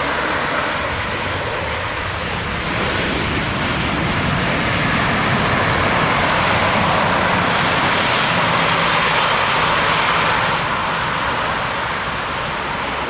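Airliner passing close by on landing approach, its engines a loud, steady rushing roar that swells to its loudest around the middle and eases off near the end.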